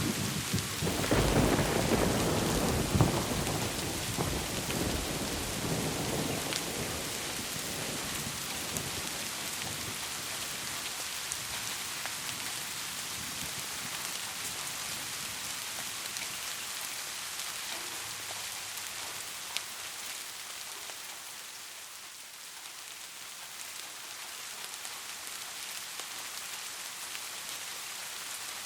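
Steady rain with a rolling rumble of thunder in the first few seconds that fades away, leaving only the rain.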